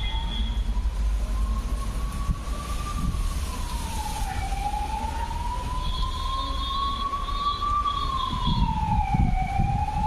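A siren wailing, its pitch slowly rising and falling about every four to five seconds, over a low, steady rumble.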